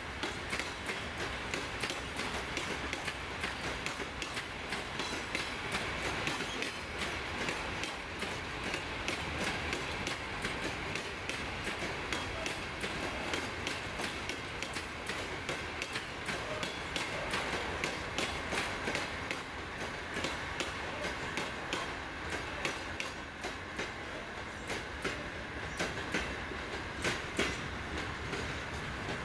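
A freight train of coal wagons rolling past at speed, the wheels clicking rapidly and continuously over the rail joints above a steady rumble.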